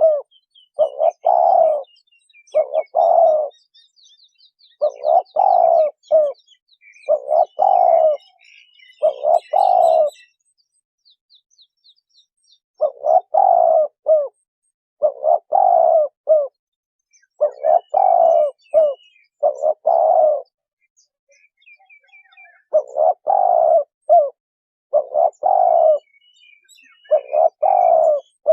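Spotted dove cooing over and over: about a dozen loud, mellow coo phrases, each about a second long, coming every second or two in runs with short pauses between. Faint high chirps of small birds sound in the background, mostly in the first half.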